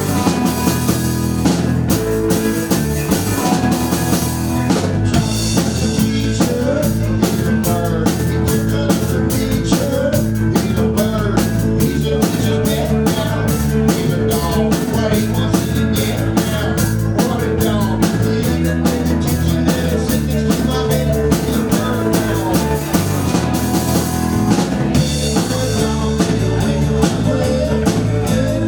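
Rock band playing an instrumental passage live: a drum kit keeps a steady beat under guitar and a bass line that steps from note to note.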